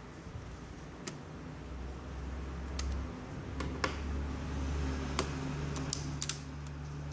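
Irregular light clicks and taps of a laptop's small plastic and metal parts being handled during disassembly, about ten in all, over a low hum.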